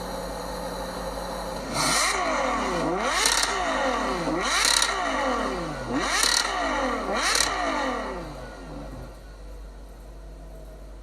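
Ferrari engine idling, then revved five times in quick succession, each rev rising sharply in pitch and falling back, before it settles back to a quieter idle.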